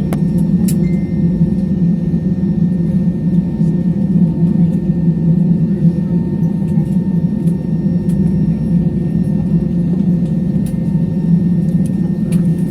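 Airliner cabin noise: a steady, loud rumble of the engines and airflow heard from inside the passenger cabin, with a couple of faint clicks near the start.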